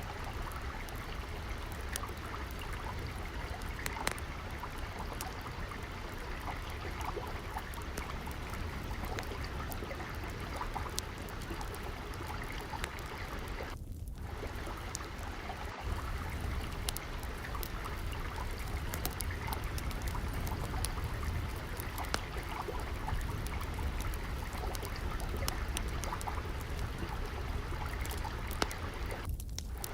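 Gently flowing water trickling steadily, with the sharp pops and crackles of a wood fire scattered over it.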